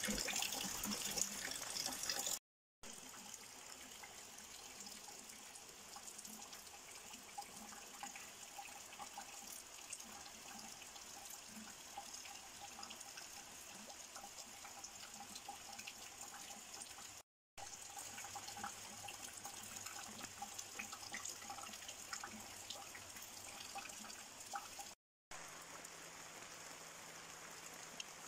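Steady rain falling, a faint hiss of many small drops pattering, broken by three brief silent cuts.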